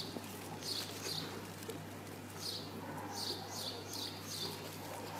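A small bird chirping in short high notes, in runs of about three a second, over a steady low hum.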